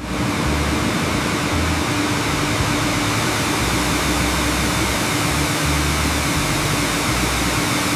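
Steady, loud rushing noise with a constant low hum beneath it, cutting in and out abruptly.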